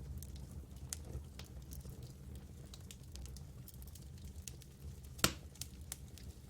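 Campfire crackling: burning wood gives off irregular small pops and ticks over a low steady rumble, with one sharper, louder pop about five seconds in.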